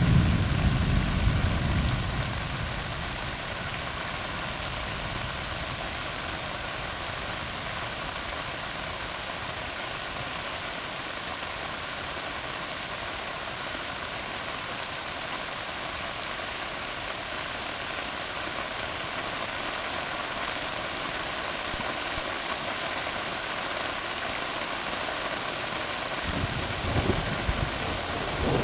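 Steady rain falling on a tar road, an even hiss with scattered individual drop ticks. A low rumble of thunder dies away in the first couple of seconds, and another begins near the end.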